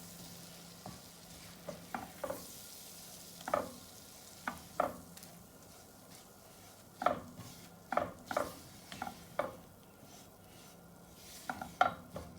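Utensil stirring flour in melted butter in a frying pan, knocking and scraping against the pan at irregular intervals over a faint sizzle: a roux being roasted for white sauce.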